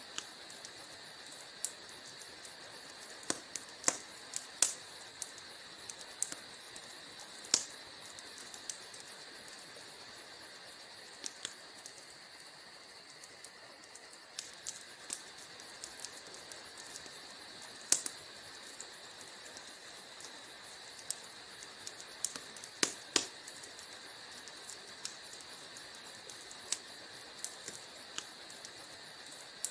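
Wood fire burning in a fireplace: irregular crackles and sharp pops, a few much louder than the rest, over a steady soft hiss.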